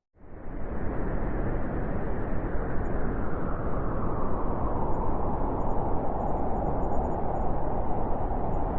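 Blizzard wind blowing, a steady rushing noise that swells in out of a brief silence within the first half second, then holds.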